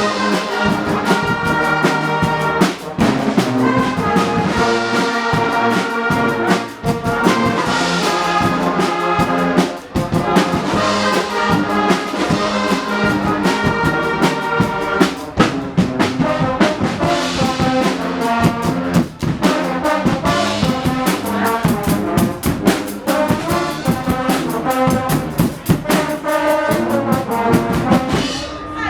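Guggenmusik carnival band playing: a loud brass section of trumpets and trombones over a steady drum beat.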